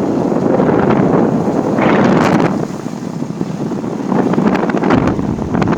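Wind buffeting the microphone of a camera on a moving motorcycle: a loud, gusting rush that swells and eases, with the bike's road noise under it.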